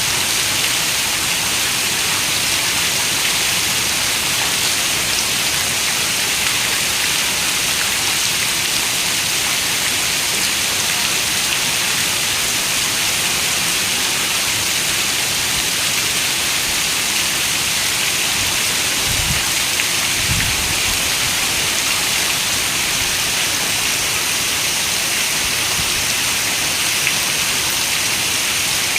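Steady rain falling, an even high hiss with no let-up. Two brief low thumps come about two-thirds of the way through.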